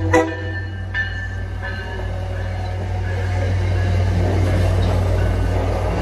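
An MBTA commuter train's bell rings a few last strokes that fade out within the first two seconds, giving way to the steady, slowly building rumble of the train's bilevel coaches rolling past along the platform.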